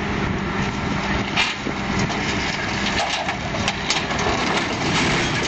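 Heavy truck engine running steadily with a constant low hum, with a few sharp knocks about a second and a half in and again between three and four seconds in.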